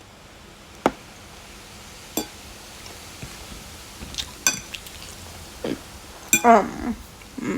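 Cutlery clinking against a bowl or plate during a meal: a few separate sharp clinks a second or so apart, with a brief falling-pitched sound near the end.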